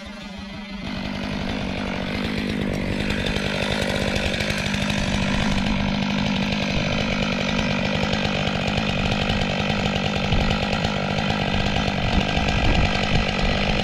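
STIHL MS 500i two-stroke chainsaw running steadily, growing louder over the first couple of seconds and then holding an even pitch.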